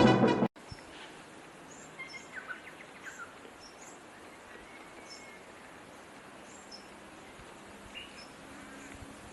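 Small birds chirping now and then, short high calls over a faint steady outdoor hiss; loud music cuts off about half a second in.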